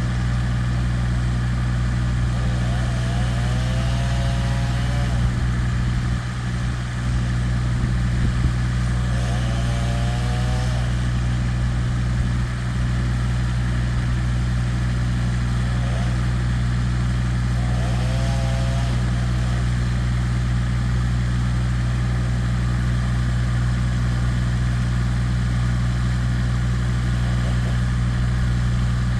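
Large engine running steadily at a constant speed, with a short rising whine three times, about every seven seconds.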